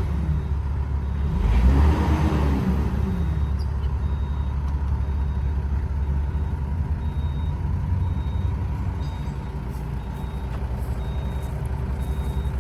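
2008 Kobelco SK140 crawler excavator's diesel engine running, its pitch rising and falling once about a second in as it takes load. From about three seconds in, a machine warning alarm sounds a steady series of short, high beeps over the engine.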